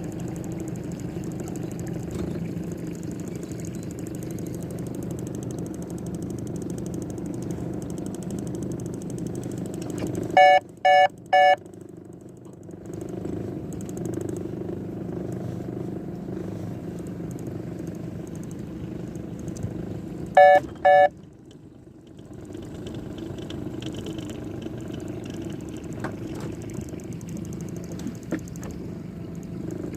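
A boat motor running steadily. It is interrupted twice by short, loud electronic beeps, three in quick succession about ten seconds in and two more around twenty seconds. After each set of beeps the motor noise drops away for a couple of seconds, then comes back.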